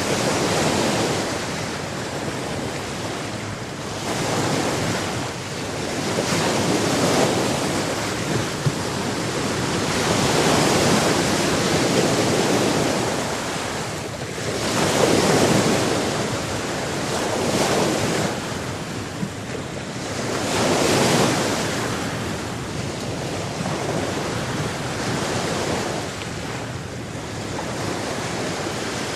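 Sea waves breaking and washing on a shore, swelling and falling every few seconds, with wind.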